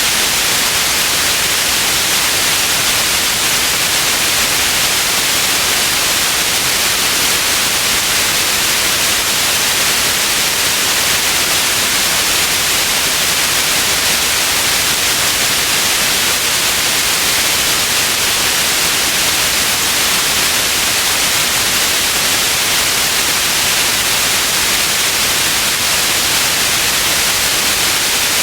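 Steady white noise: an even, unchanging hiss, strongest in the upper range, with no breaks or other sounds.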